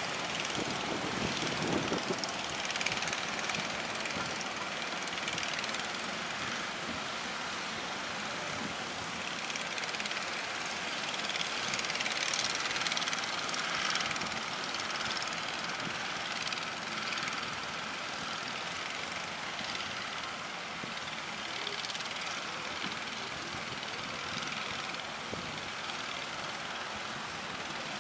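Sea waves and strong wind, a steady rushing noise that swells and eases over several seconds.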